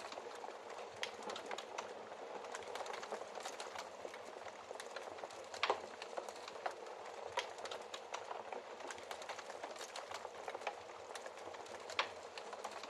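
Wood fire crackling in a fireplace: a steady low hiss with scattered sharp crackles and a few louder pops, one about halfway and another near the end.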